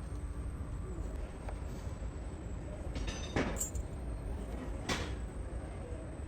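Steady low rumble of workshop noise, with a short scrape about three seconds in and a sharp knock about five seconds in.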